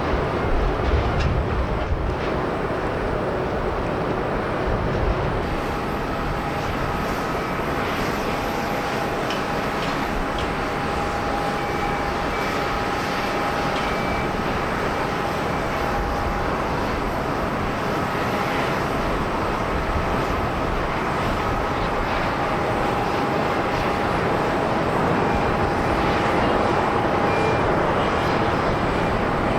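Jet airliner on approach to land: steady engine noise with a high fan whine that comes in about five seconds in and grows slightly louder near the end. A low rumble fills the first few seconds.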